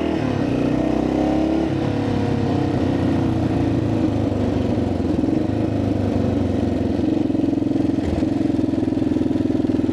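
1985 Yamaha XT600's single-cylinder four-stroke engine running under way, its pitch climbing for the first couple of seconds, then dropping and holding steady.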